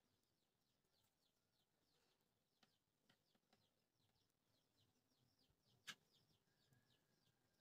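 Near silence, with faint rapid bird chirping in the background and one sharp click nearly six seconds in.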